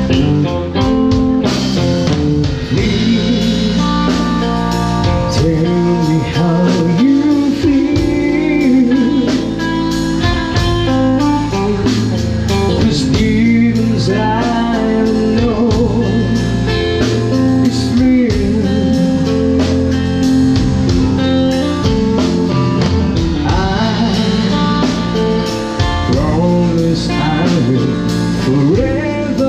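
A band playing a song: a lead vocal over guitar with a steady drum beat.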